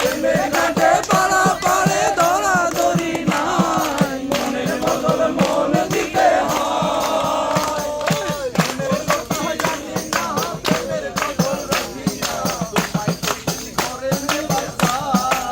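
Several voices singing together over a fast, steady percussion beat.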